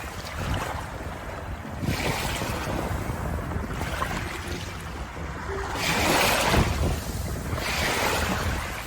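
Ocean waves washing in one after another, each a rising and falling hiss over a steady low rumble, the biggest about six seconds in.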